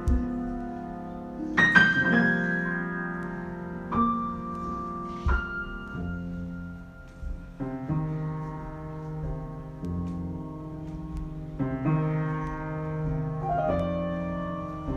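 Piano playing a slow improvisation: held, ringing chords, with a new chord or note struck every second or two.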